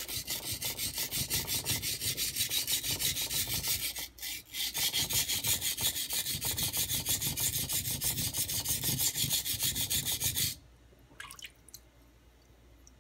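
A high-carbon stainless Santoku blade scraping back and forth on a coarse 180-grit Nubatama Ume whetstone, about four to five quick strokes a second, as the tip is worked to raise a burr. There is a short break about four seconds in, and the stroking stops about ten and a half seconds in.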